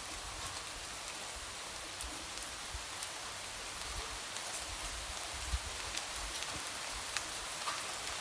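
Light rain falling steadily, an even hiss with scattered individual drops ticking, tapping against a window.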